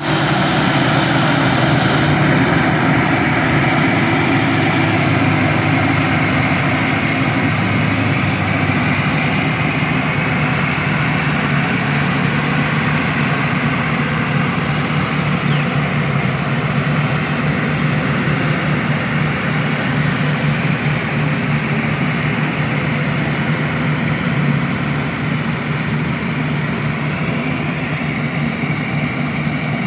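Crawler tractor engine running steadily under load as it drives a rotavator, with a low drone and a broad rushing clatter over it; slightly quieter toward the end.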